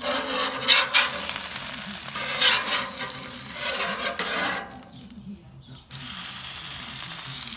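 Fried bologna sizzling on the hot steel cooktop of a 28-inch Blackstone propane griddle: a steady frying hiss with a few short, louder bursts in the first three seconds. The sound drops out briefly about five seconds in, then the steady sizzle returns.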